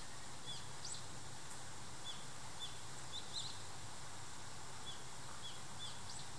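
A small bird chirping: short, high, arched notes at irregular intervals over a steady background hiss and low hum.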